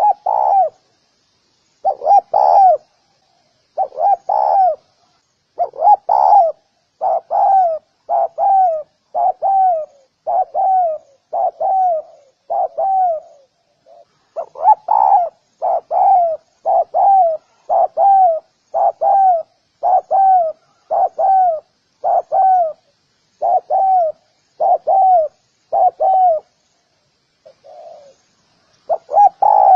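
Spotted dove cooing: a long run of short, arching coo notes, about one a second, broken by brief pauses about halfway and near the end.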